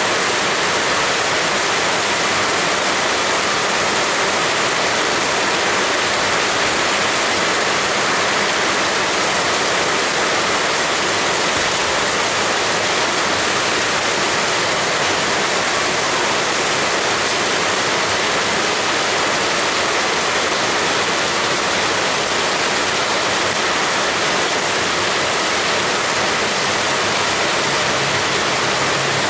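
Heavy rain falling steadily as a dense, even hiss, with no let-up. A faint low hum comes in near the end.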